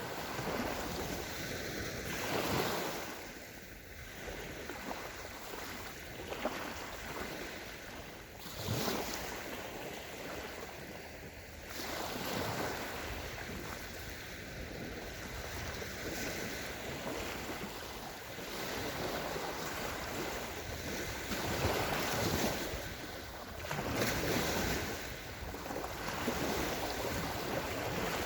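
Sea waves breaking and washing up onto a sandy shore, the surf swelling and easing every few seconds.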